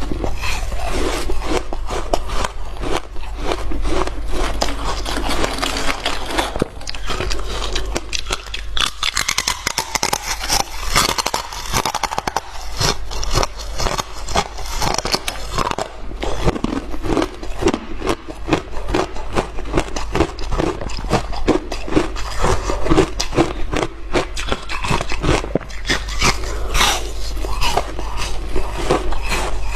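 Hard frozen ice being bitten and chewed close to the microphone: dense, irregular crunching and crackling with no let-up, over a steady low hum.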